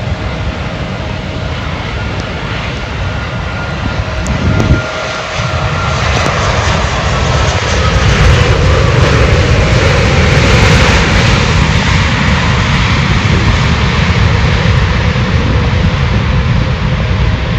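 Jet airliner passing close by, its engine whine falling in pitch and the roar swelling to its loudest about halfway through, then easing off. Wind rumbles on the microphone underneath.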